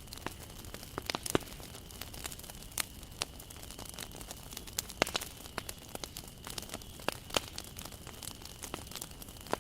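Wood campfire burning and crackling: irregular sharp pops and snaps over a steady low hiss. Two louder pops come about a second in and about five seconds in.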